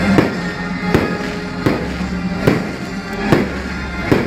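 Fireworks bursting and crackling over loud music with a steady beat, a sharp hit coming a little under once a second.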